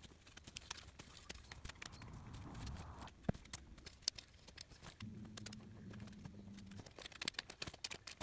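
Fire crackling, with irregular sharp pops and snaps. A low steady hum sounds for about two seconds midway.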